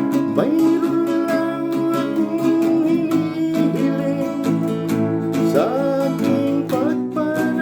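Acoustic guitar strummed in a steady rhythm, accompanying a voice singing.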